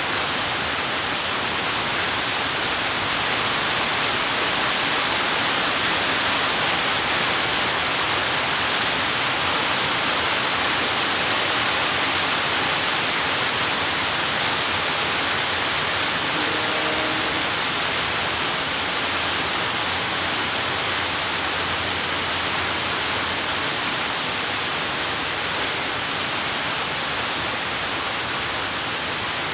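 Heavy rain falling steadily, an even hiss with no thunder. A faint short tone sounds once about halfway through.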